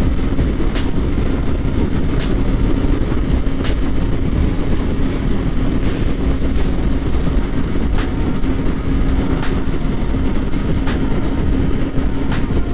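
Kawasaki Ninja 400 parallel-twin engine holding a steady note at highway cruising speed, buried in heavy wind rumble on the microphone, with scattered sharp clicks.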